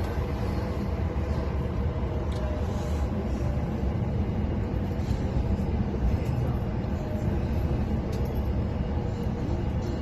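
Steady low rumble inside a passenger train carriage, with a few faint clicks.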